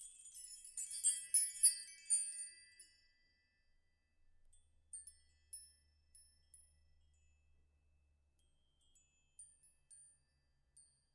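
High, bright chimes tinkling: a dense shimmering run over the first three seconds, then scattered single dings.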